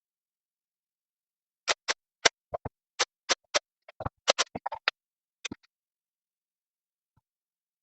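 A quick, irregular run of about twenty sharp clicks and knocks, starting nearly two seconds in and stopping before six seconds, with some in fast clusters.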